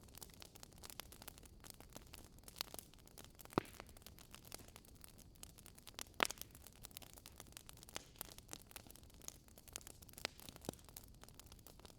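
Wood fire burning in a fireplace, crackling with a steady scatter of small clicks and a few louder pops, the loudest about six seconds in.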